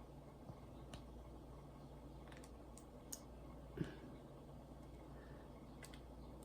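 Faint, sparse clicks and taps of diamond-painting work, a drill pen picking up and pressing resin drills onto the canvas, with one louder tap a little under four seconds in.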